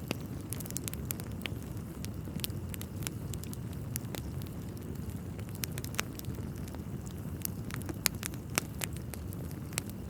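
Wood fire in a fireplace crackling, with frequent sharp pops and snaps over a steady low rumble; the loudest pop comes about eight seconds in.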